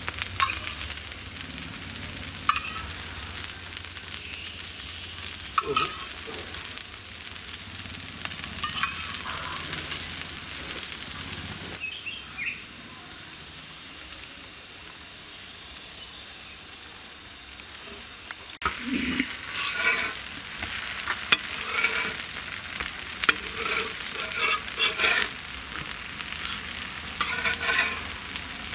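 Food sizzling in hot oil in a pan, stirred with repeated scraping strokes of a spoon against the pan. The sizzle drops abruptly to a quieter hiss partway through. From about two-thirds of the way in, the stirring strokes come thick and regular again.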